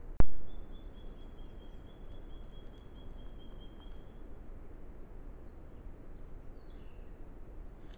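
A single loud, sharp click a fraction of a second in, then a bird trilling a run of rapid, evenly spaced high notes for about four seconds, and a single falling whistle near the end, over a steady hiss.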